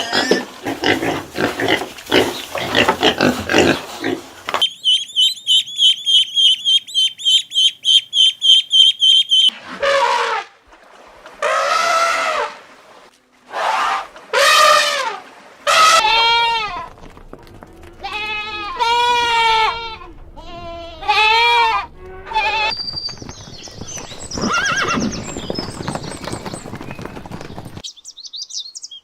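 A string of different animal calls: a fast, high, rhythmic chirping for about five seconds, then a series of separate drawn-out calls whose pitch rises and falls, typical of farm animals such as goats.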